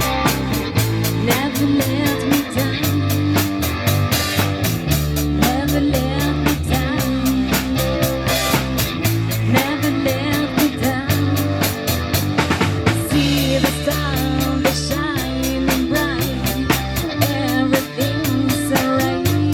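Live rock band playing with a steady drum-kit beat, a sustained bass line and guitar.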